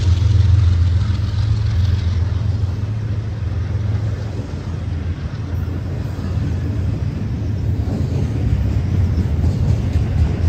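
Train passing with a steady low rumble. It eases a few seconds in and builds again toward the end, with faint clicks coming in.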